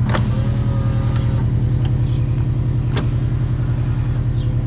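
2002 Subaru WRX's turbocharged flat-four idling with a steady pulse, heard from inside the cabin. Two sharp clicks, one near the start and one about three seconds in.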